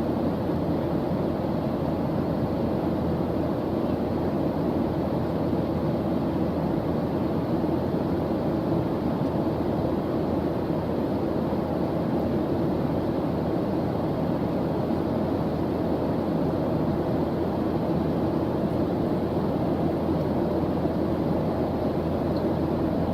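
Steady white-noise study track: an even, deep rushing hiss that never changes, with most of its weight in the low end.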